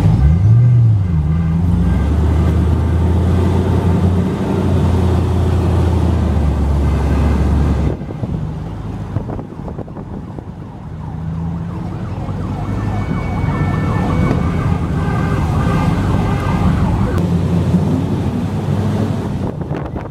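Classic car's engine running as it drives slowly in a line of traffic, briefly rising in pitch about half a second in. About eight seconds in, the sound drops suddenly to a quieter mix of engine and road noise.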